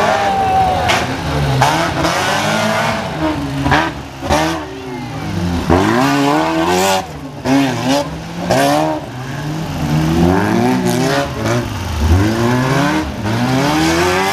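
A derby car's engine revving hard and dropping back again and again as it is driven flat out round a dirt track, with several sharp clatters in between.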